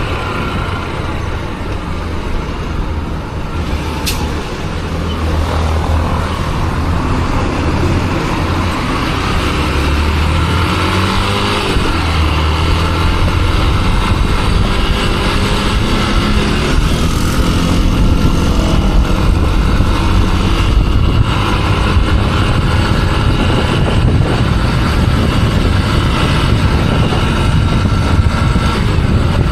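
Motorcycle riding through town traffic: its engine runs steadily and rises in pitch a few times as it accelerates, with road and wind noise throughout.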